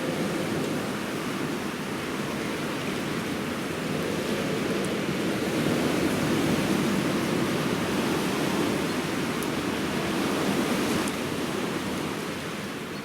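Steady rush of running water, easing slightly near the end, with a few faint ticks.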